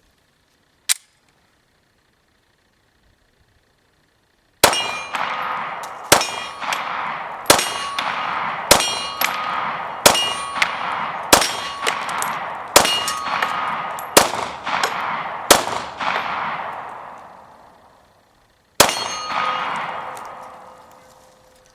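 A sharp click about a second in, then an FMK 9C1 9mm pistol firing 124-grain remanufactured full metal jacket rounds: nine shots about 1.3 seconds apart, then a pause and one more shot. Each shot has a long, ringing decay.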